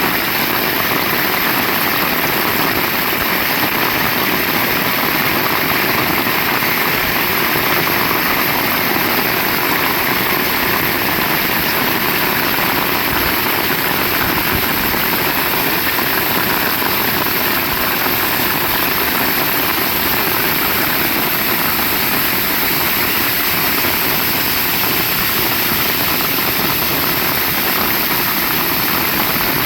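Heavy rain falling, a loud, steady, even hiss and roar with no let-up.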